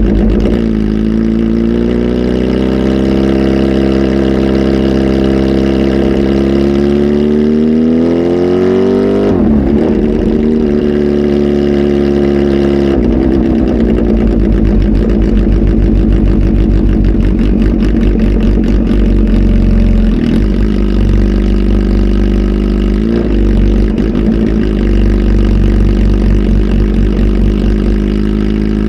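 Kawasaki Z H2 SE's supercharged inline-four, flash-tuned and breathing through a full exhaust, running under load. The pitch climbs steadily for several seconds, drops sharply about nine seconds in, as at a gear change, then settles to a near-steady drone from about thirteen seconds on.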